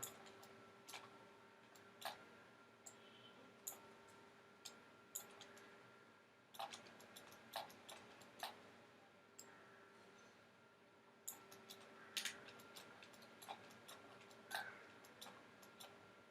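Faint, irregular clicks of a computer mouse, a couple every second or so, over a faint steady hum.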